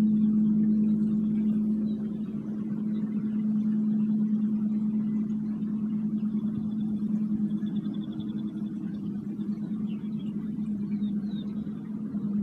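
A singing bowl holding one sustained low drone with a few higher overtones, its loudness gently wavering. Faint short bird chirps come and go above it.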